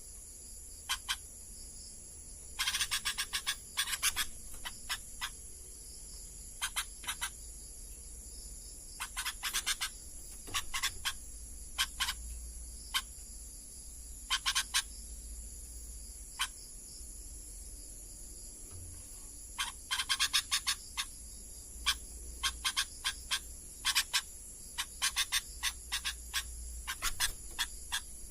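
Sooty-headed bulbul (kutilang) singing in scattered bursts of short, quick notes, busiest in the last third, over a steady high-pitched night chorus of insects.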